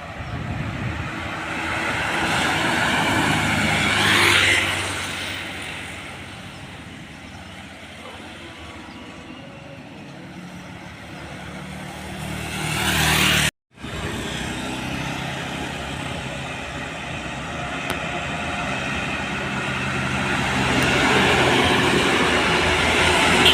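Heavy trucks passing on a road: engine drone and tyre noise swelling as each one goes by, loudest about four seconds in and again just before a sudden cut about halfway through, then another building toward the end.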